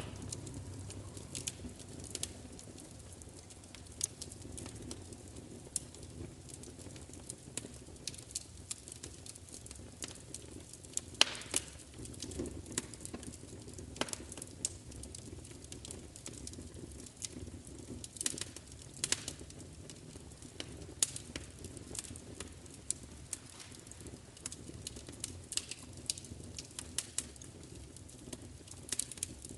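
Crackling fire: irregular sharp pops and snaps over a steady low rumble, with one louder pop about 11 seconds in.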